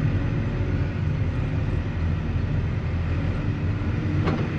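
Tractor engine running steadily at low speed, with one short knock near the end.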